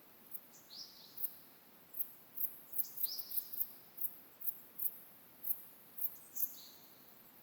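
Small wild birds calling in a forest at dawn: a run of very high, thin, short chirps at uneven spacing, with a few brief calls that slide down in pitch.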